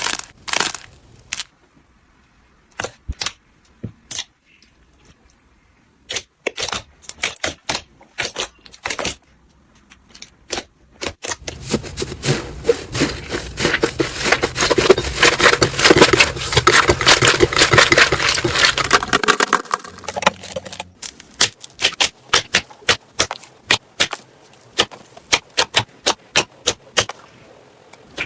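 Slime being squeezed and pressed by hand, making sharp clicks and crackling pops. A dense stretch of crackling comes in the middle, then a steady run of clicks about three a second.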